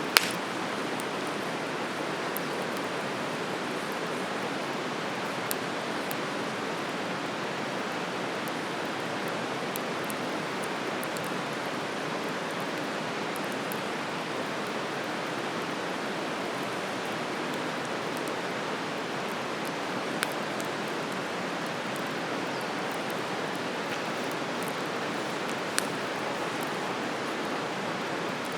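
Wood campfire burning, with a few sharp crackling pops (the loudest right at the start, others scattered well apart) over a steady rushing hiss.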